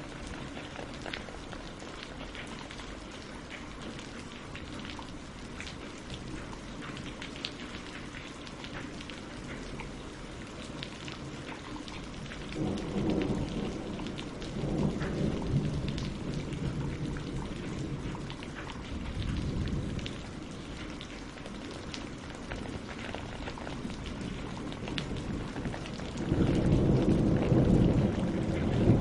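Steady rain falling on leaves and lake water, with many separate drop ticks. Low rolling rumbles of thunder swell up about twelve seconds in, again briefly later, and loudest near the end.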